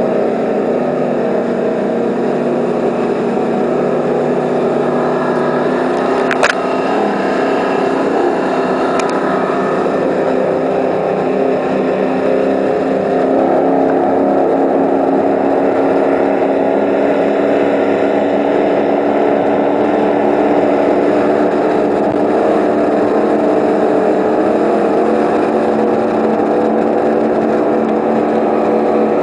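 A 36-foot Eliminator powerboat's engines running steadily at speed, growing a little louder about halfway through. A sharp click about six seconds in.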